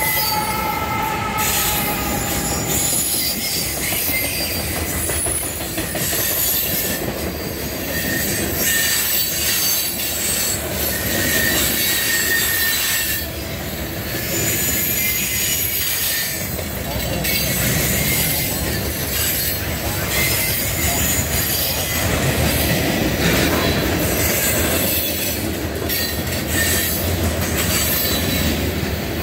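Norfolk Southern AC44C6M mid-train locomotive passing at the start, followed by a string of freight cars rolling by. The steady wheel-on-rail rumble is overlaid by high-pitched wheel squeal that comes and goes.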